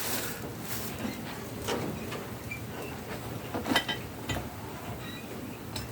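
A few light clicks and knocks, some with a brief metallic ring, as metal engine parts are handled and set in place, over a faint steady hiss.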